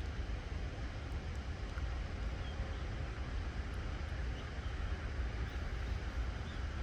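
Steady outdoor noise: a constant low rumble with an even hiss over it, with no distinct events.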